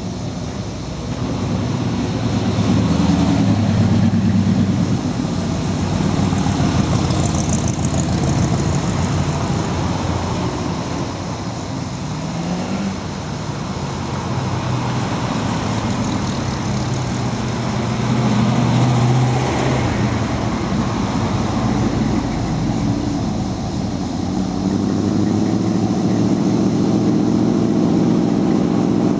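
Car engines running, a steady low engine sound whose pitch rises and falls at times as the cars idle and move.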